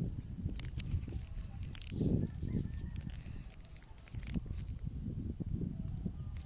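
Wind buffeting the microphone in gusts, under a steady high-pitched insect drone and a pulsing insect chirp of about six pulses a second that stops about four seconds in, with a few light clicks.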